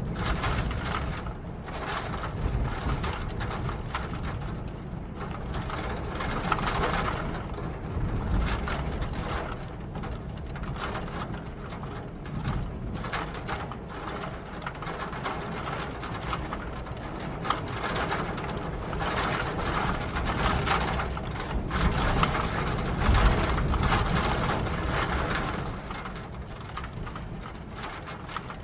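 Rain pattering steadily: dense small drip ticks over a constant hiss that swells and eases in waves.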